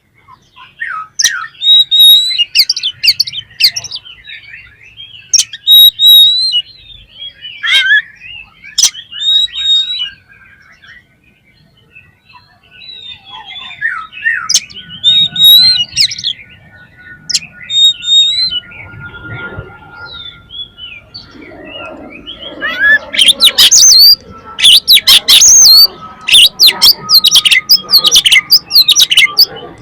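Oriental magpie-robin singing: varied whistled phrases and sharp chirps come in spaced runs, then turn into a dense, loud stream of rapid notes in the last third.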